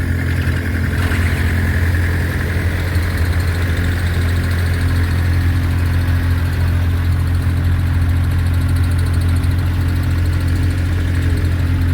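Vintage tractor engine idling steadily, a low even hum that neither revs up nor dies away.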